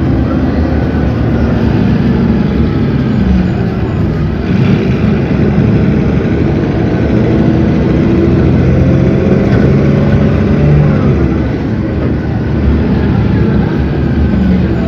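Cummins ISB 6.7 inline-six diesel engine of a city bus running under way, its note shifting with speed; the engine pitch climbs slowly and drops about eleven seconds in.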